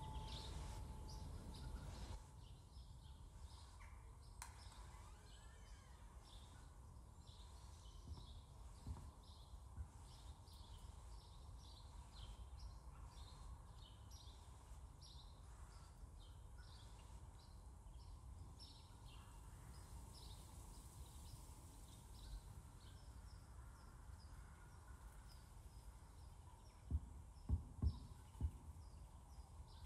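Quiet outdoor ambience with faint, scattered small-bird chirps throughout. Near the end come three or four low, dull thumps.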